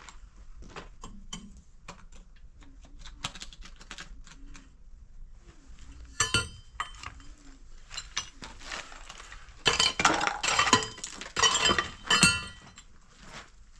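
Hard objects clinking and clattering in a run of short knocks, with a sharp clatter about six seconds in and a longer, louder stretch of clattering near the end.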